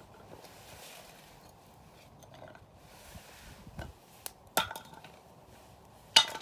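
Campfire crackling: burning firewood gives several sharp pops over a low steady hiss, the loudest two about halfway through and near the end.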